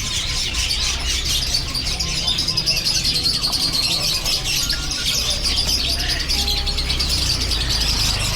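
Many caged songbirds chirping at once: a dense, unbroken high-pitched chatter of rapid chirps and twitters, over a steady low hum.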